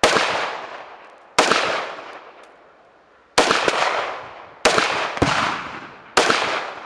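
Gunshots fired one at a time, about seven shots at uneven spacing, two pairs coming in quick succession, each trailing off in a long echo.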